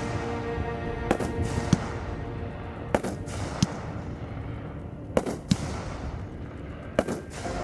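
Fireworks going off in a fired show: about seven sharp reports, spaced a second or two apart, over music.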